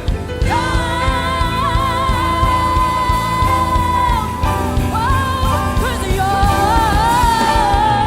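Gospel praise-and-worship music played live: a band with a steady bass and drum beat under a voice singing long held notes with vibrato, one from about half a second in until about four seconds, then a second phrase.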